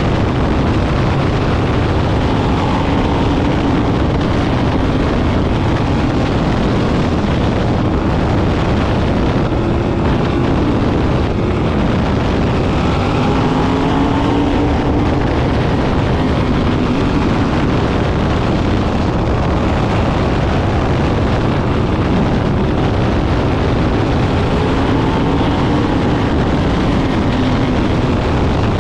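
Sprint car engines racing around the track. Their pitch rises and falls as cars pass about every ten seconds, over loud, steady noise.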